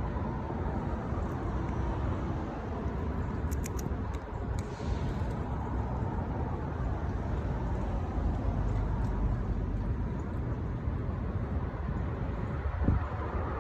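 Steady outdoor background rumble, heaviest in the low end, with a few faint clicks about three and a half seconds in.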